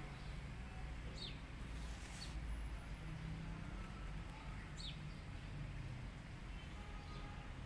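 A few short, high, quickly falling bird chirps, about a second, two seconds and five seconds in, over a low steady outdoor rumble.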